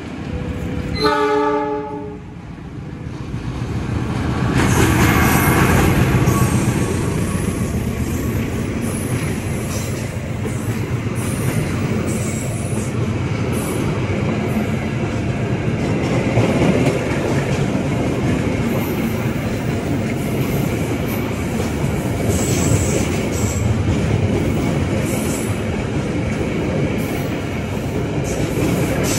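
Argo Bromo Anggrek express train: the diesel-electric locomotive's horn sounds one blast about a second in. Then the train passes close by, its rumble building over a few seconds and holding steady as the stainless-steel carriages go past, with wheels clicking over the rail joints.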